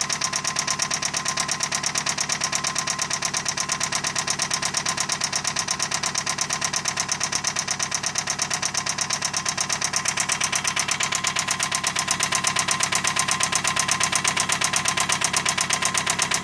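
Toyota Camry engine idling with a steady, rapid, evenly spaced knock, which the owner takes for rod knock from a worn connecting-rod bearing.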